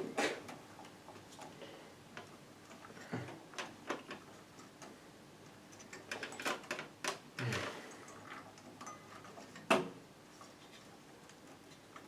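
Scattered light clicks and knocks, irregularly spaced, from hands working on computer parts and cables inside a PC case. One sharper knock comes near the end.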